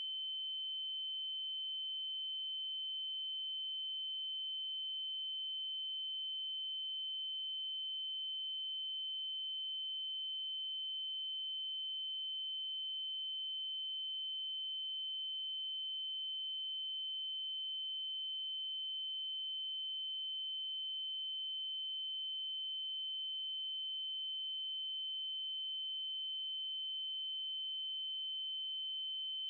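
Steady electronic 3072 Hz triangle-wave tone, one high, unbroken pitch held at a constant level.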